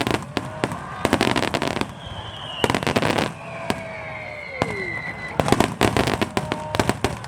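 Fireworks display over the sea: clusters of rapid crackling bangs from bursting shells and star mines, with thin whistling tones that fall slowly in pitch between the clusters.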